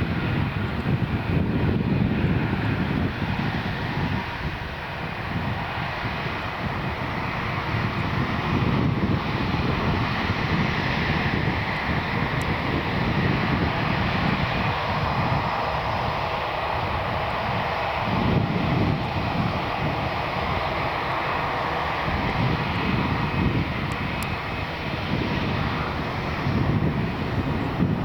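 Jet airliner engines running loud and steady, a broad rushing noise with low rumble, a little stronger in the middle.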